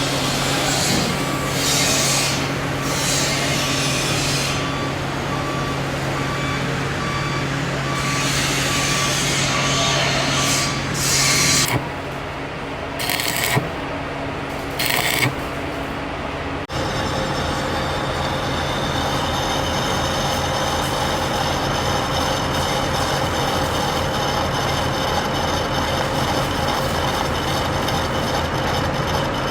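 A heavy vehicle's engine running, with a regularly repeating beep for the first several seconds and short hissing bursts around the middle. The sound changes abruptly about two-thirds of the way through to a denser, steady engine sound.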